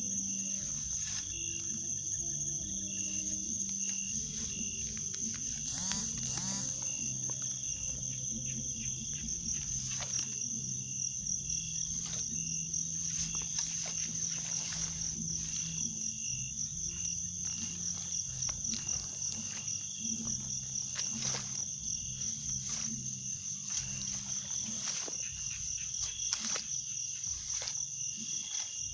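Night insect chorus: crickets trilling steadily and high-pitched, over low held tones that shift in pitch every few seconds, with scattered faint clicks.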